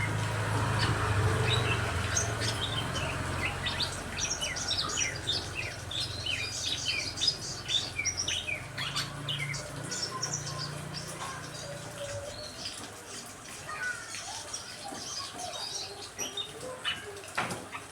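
Several birds chirping and calling in quick, overlapping short notes, with a low hum underneath that stops about two-thirds of the way through and a single sharp click near the end.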